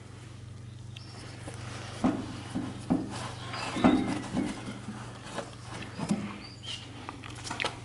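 Scattered knocks and clicks of parts and tools being handled during work on a motorcycle, over a steady low hum, with a few brief high squeaks or chirps.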